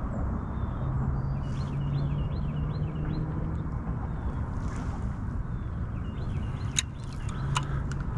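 Open-air ambience on the water: a steady rush with a low hum under it, and a bird chirping a quick run of about six notes. A few sharp clicks come near the end.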